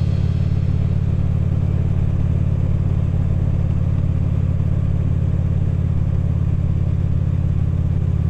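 Harley-Davidson V-twin motorcycle engine and exhaust running at a steady cruising speed, a constant low drone with no change in pitch.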